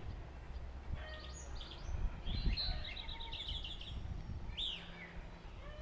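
Small songbirds chirping in the background over a low steady outdoor hum. Around the middle there is a quick run of repeated high notes, and later a single downward-slurred call.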